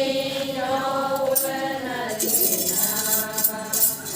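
Adi ponung song: voices holding a long drawn-out sung note that slides down near the end, with a rhythmic jingling rattle shaken along with it from about a second and a half in.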